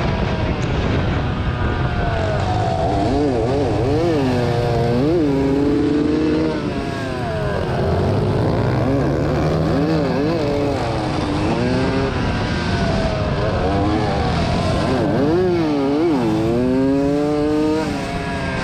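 Two-stroke 80cc motocross bike engines racing: the engine pitch repeatedly climbs and drops as the throttle is worked and gears are shifted, with more than one engine running at different pitches at once.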